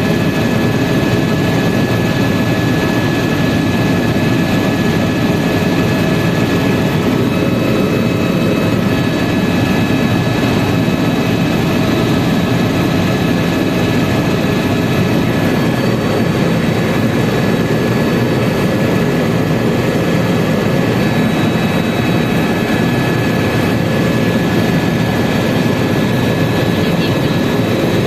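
Tour helicopter in flight: steady, loud engine and rotor noise with a high, unchanging turbine whine over it.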